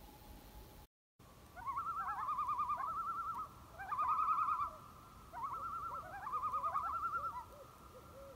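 Wild bird calls: three phrases of rapid, quavering trills, after a brief drop-out about a second in.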